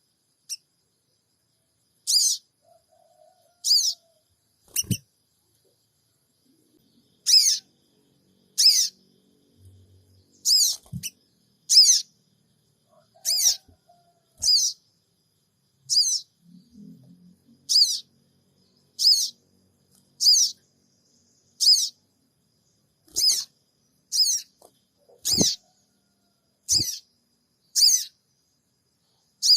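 Sogon bird repeating a short, sharp, high-pitched 'cingik cingik' chirp about every second and a half, a lure call meant to make sogon birds answer. A few faint low thumps come in between.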